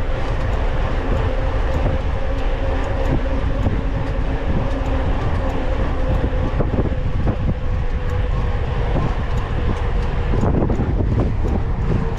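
Mountain bike rolling fast over rough ground, heard from an onboard camera: a steady rumble and wind buffeting on the microphone, with frequent rattling clicks from the bike.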